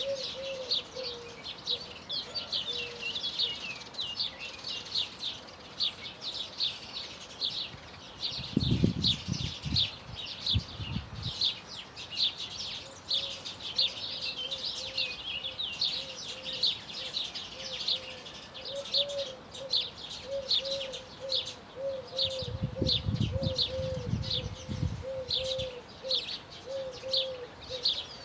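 Songbirds chirping and twittering steadily, with a lower repeated note underneath. Two bouts of low rumbling come about eight seconds in and again about twenty-two seconds in.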